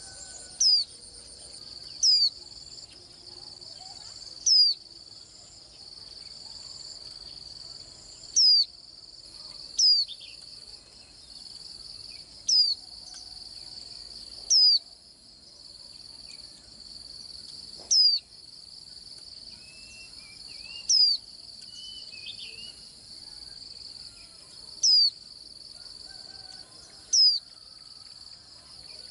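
White-eye giving sharp, short call notes that sweep down in pitch, about eleven in all, every two to four seconds. Under them runs a steady, high-pitched insect trill.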